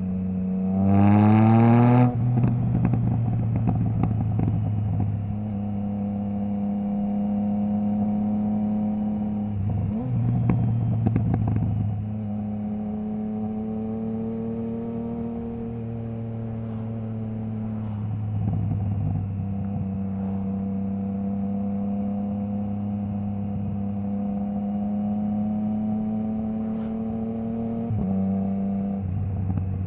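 Triumph Trident 660's inline-triple engine through a Zard stainless full exhaust system with the baffle removed, heard from the rider. It revs up hard in the first two seconds, and the pitch cuts off sharply. It then runs on at a steady or slowly changing pitch, with brief breaks in the sound at a few gear changes.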